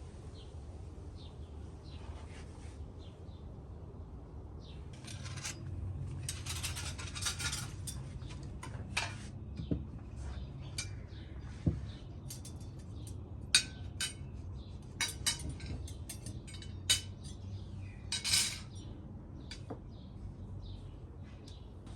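Cutlery and dishes clinking: irregular light clinks and taps, coming more often in the second half, with a few short noisy handling sounds.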